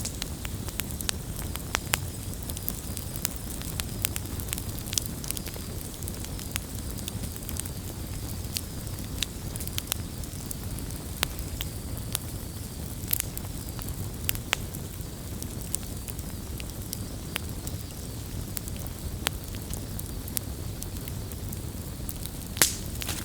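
Wood campfire burning steadily, a low rumble of flame with irregular sharp crackles and pops throughout, one louder pop near the end.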